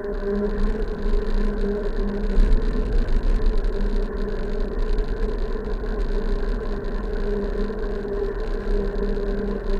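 Steady road and wind noise from a bike in motion, with a constant droning hum and a low rumble.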